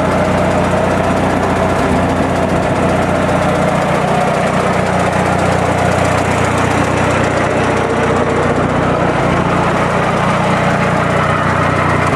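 Old Massey Ferguson tractor engine running steadily at idle.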